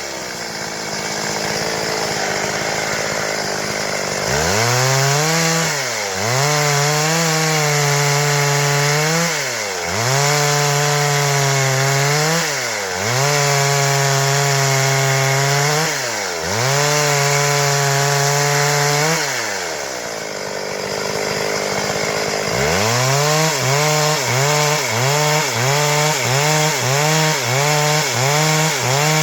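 Stihl MS 382 two-stroke chainsaw cutting wood at full throttle. Its pitch sags under load and recovers several times, drops to idle briefly about two-thirds of the way through, then revs back up with a fast wavering about twice a second.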